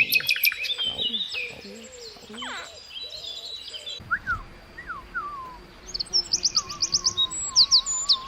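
Small bird chirping: a quick run of sharp chirps at the start, scattered single chirps in the middle, and another fast run about three-quarters of the way through. A wavering whistle-like tone comes in near the end.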